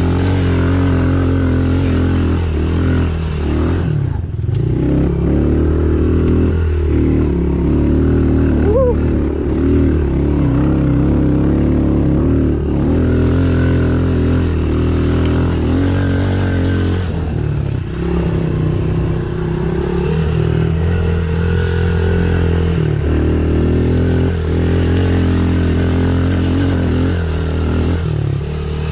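Engine of a small Honda trail bike running under load on a rocky climb, its pitch rising and falling with the throttle and briefly dropping twice, with clattering from the bike over the rocks.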